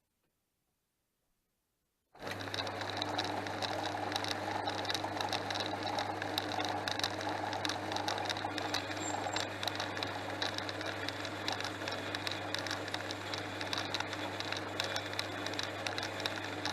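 Near silence, then about two seconds in the Portass Model S mk2 metal lathe is heard running abruptly at full level: a steady low motor hum under a scratchy crackle of many small clicks.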